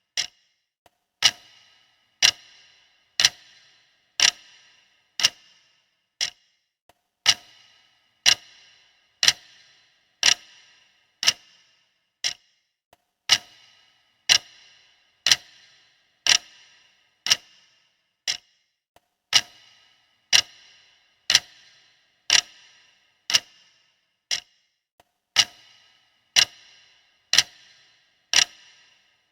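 Mechanical clock ticking steadily, about one tick a second. Each tick is a sharp click with a short ringing tail, and now and then a tick comes fainter.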